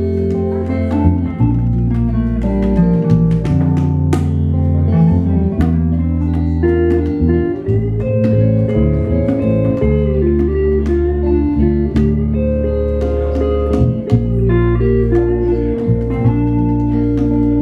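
Blues-style band music: guitar melody over a held, stepping bass line, with regular drum hits throughout.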